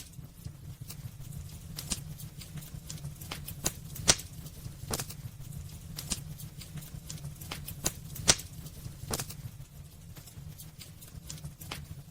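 Wood fire burning in a fireplace, crackling with irregular sharp pops over a low steady rumble; the loudest pops come about four and eight seconds in.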